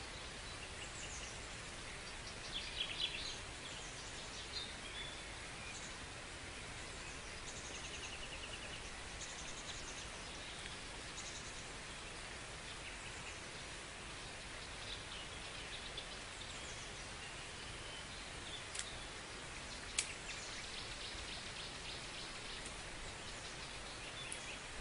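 Small songbirds chirping and calling on and off over a steady outdoor hiss, with a few sharp clicks near the end, the loudest about 20 seconds in.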